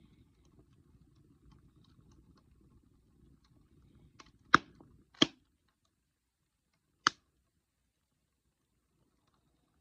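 Wood fire burning with a faint low crackle and tiny ticks. Three sharp, loud pops of burning wood come about four and a half, five and seven seconds in. The low crackle drops away after the second pop.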